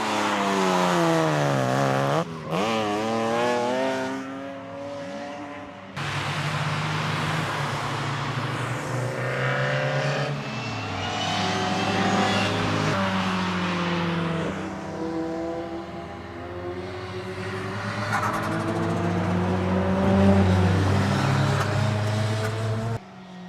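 Track cars' engines revving hard, the pitch falling over the first two seconds and then rising and falling repeatedly as the cars accelerate, lift off and pass. The sound changes abruptly about six seconds in and cuts off sharply near the end.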